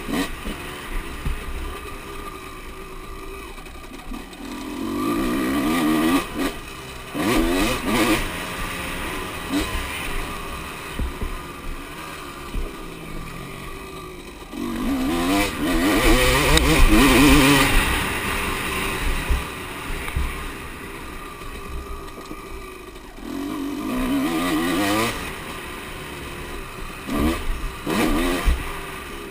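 Motocross bikes racing past several times, engines revving up and down as each goes by, the loudest pass about halfway through.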